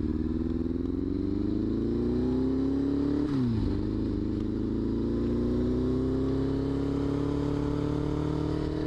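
Motorcycle engine accelerating: its pitch rises for about three seconds, drops sharply at a gear change, then climbs again more slowly.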